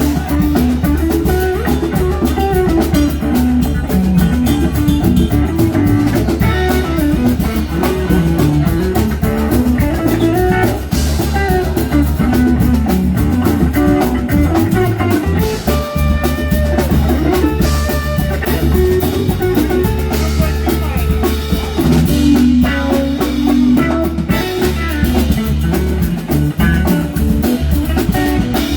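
Live band playing an instrumental passage: electric guitar over bass and drum kit, with no singing.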